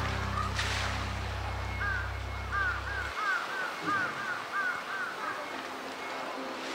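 A bird calls in a quick run of about ten short, repeated notes, with one splash of water near the start. A low held note of background music cuts off about three seconds in.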